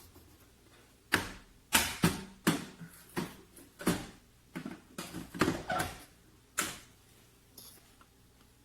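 A quick, irregular series of about a dozen sharp clicks and knocks from hard objects, bunched between about one and seven seconds in.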